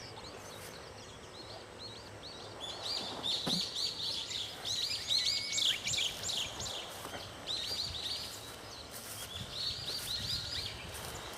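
Small birds chirping: quick runs of high, repeated notes coming in several bursts.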